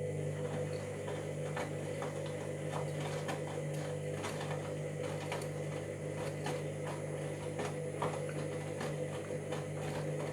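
Washing machine motor turning the drum during a wash: a steady low hum with a run of light, irregular clicks and ticks over it. The owner is listening for a drum or motor fault, which he hears starting on one direction of the drum's rotation.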